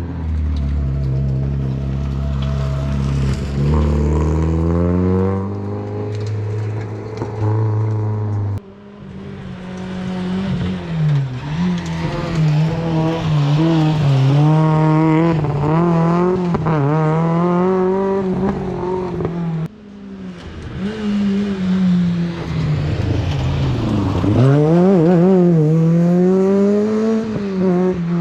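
Rally car engines revving hard, the pitch climbing and dropping through gear changes as the cars accelerate past. Three separate passes, split by abrupt cuts about 9 and 20 seconds in.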